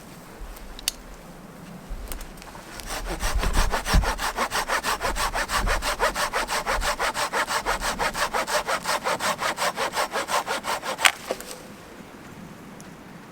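Hand saw cutting through a wooden pole with quick, even strokes, about five a second. The sawing stops with a sharp crack.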